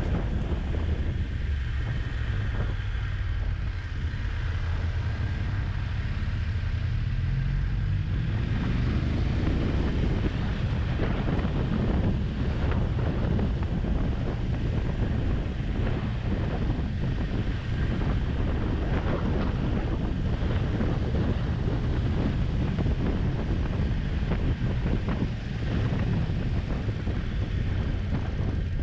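Motorcycle riding with wind buffeting the microphone over a steady engine rumble. About eight seconds in, the engine note rises as the bike accelerates.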